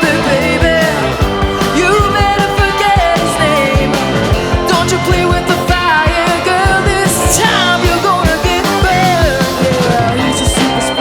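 Rock band playing live: a drum kit beating steadily under a lead melody that bends and slides in pitch.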